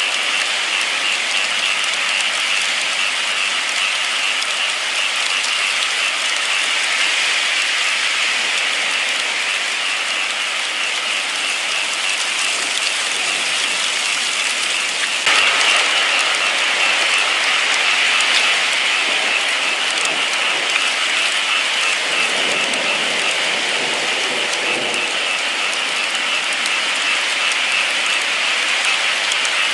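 Rain falling steadily, an even hiss, which abruptly gets a little louder about halfway through.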